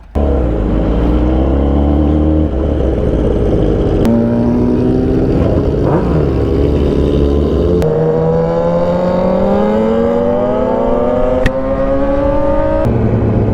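Yamaha R6 inline-four engine under hard acceleration, with the throttle opening suddenly at the start. The revs climb steadily in each gear and drop back at several upshifts, about two and a half, four, eight and thirteen seconds in.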